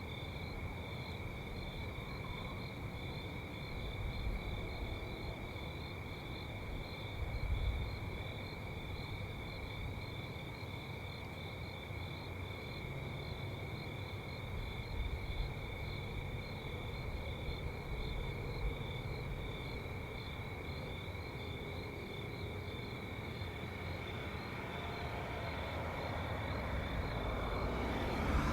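Crickets chirping steadily in a continuous high trill, over a low, uneven rumble.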